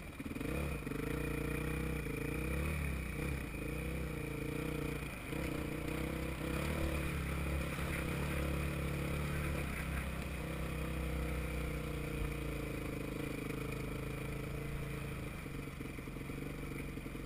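Off-road motorcycle engine heard from the rider's helmet, revving up and easing off several times as it is ridden along a dirt track, then running more steadily with a slowly falling pitch in the second half.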